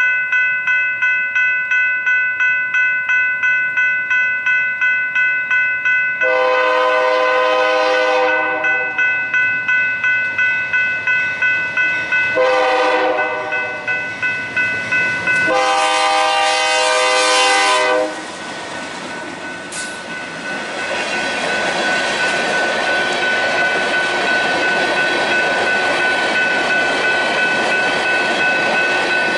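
Grade-crossing bell ringing about twice a second while a BNSF freight train's diesel locomotive horn sounds three blasts: a long one, a short one and a final long one. The locomotives then pass close by, engines running under the rumble and clatter of loaded sand hopper cars on the rails, with the bell still ringing.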